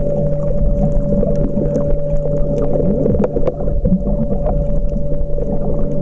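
Underwater sound through a camcorder's housing while snorkelling: a steady low hum with two held tones under it, dotted with scattered sharp clicks and crackles.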